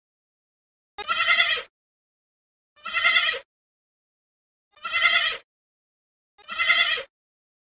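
Goat kid bleating: four short bleats about two seconds apart.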